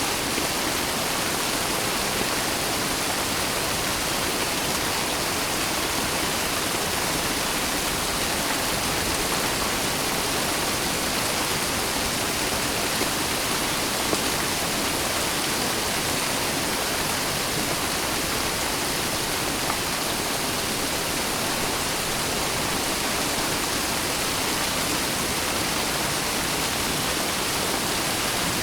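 Steady rain: a dense, even hiss of falling water that never lets up, with a few slightly louder drop hits.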